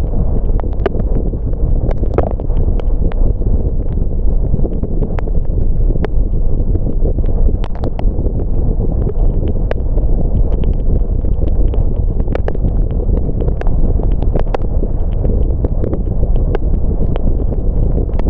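Steady low rumble of a car's tyres and road noise, heard from inside the moving car on wet roads. Irregular sharp ticks of raindrops hitting the car are scattered throughout.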